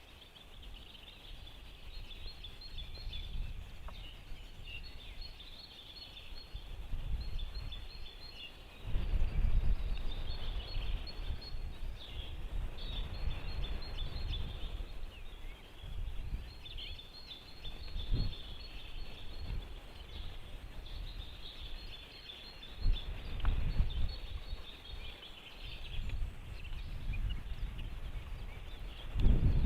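Small birds twittering and chirping continuously at a high pitch, under gusts of wind rumbling on the microphone that come and go, strongest about a third of the way in and near the end.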